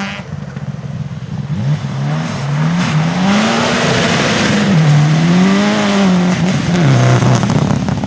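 Rally car engine revving hard on a stage, its pitch climbing and dropping several times as the driver accelerates, lifts and changes gear, with a rush of hissing noise in the middle.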